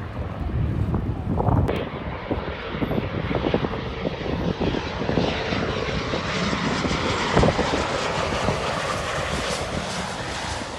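A passenger airliner's engines, a loud rushing noise from a plane moving close by, growing brighter in tone over the seconds.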